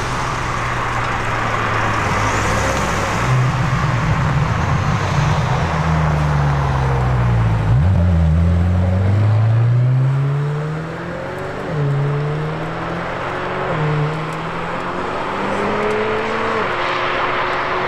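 McLaren Senna's twin-turbo V8 running at low revs as the car rolls along, then accelerating hard through several quick upshifts, the pitch rising and dropping back at each gear change.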